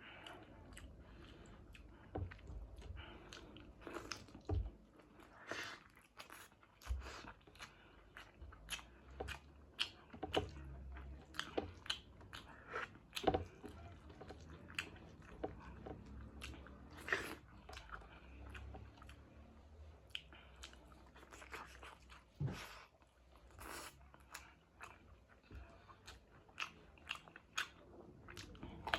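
A person chewing and biting food close to the microphone, with irregular wet smacks and crunches several times a second, while eating chicken wings curry with rice.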